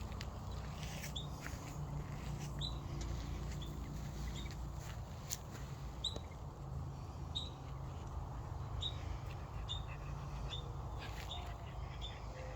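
Ground squirrels giving short, high alarm chirps, about a dozen spaced roughly a second apart, over a steady low rumble.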